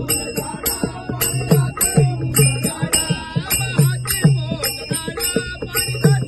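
Marathi devotional bhajan music: a hand drum beats a steady rhythm, its deep strokes dropping in pitch, while small hand cymbals clash on the beats and a melody wavers over them.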